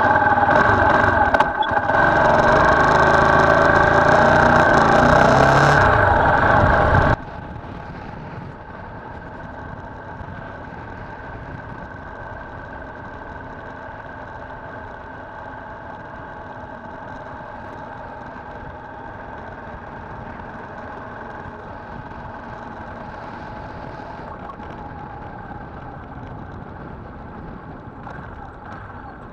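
Viper R2 motorcycle engine running, loud for about the first seven seconds and then dropping suddenly to a quieter, steady hum.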